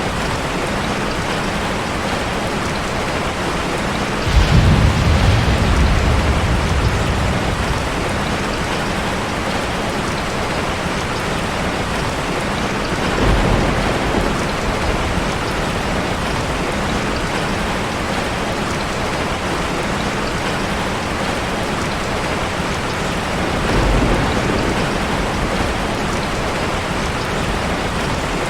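Steady heavy rain hitting a car, with thunder rumbling: a sudden strong rumble about four seconds in that fades over a few seconds, and two softer rumbles later.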